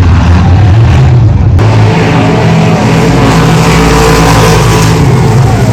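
Race car engines running loud. About a second and a half in, the sound turns harsher and brighter and the engine note shifts up.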